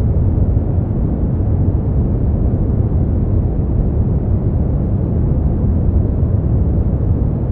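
Continuous synthetic sleep noise, sold as white noise but deep and muffled, with most of its weight in the low rumble and no high hiss. It stays perfectly even, with no changes or events.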